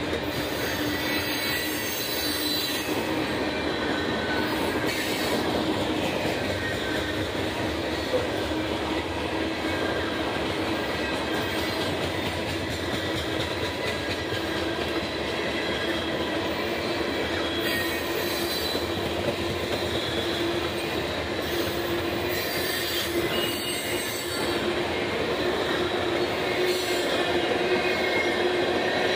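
Freight train cars, covered hoppers and tank cars, rolling steadily past on the rails: a continuous rumble of wheels on track with a steady tone running over it, a little louder near the end.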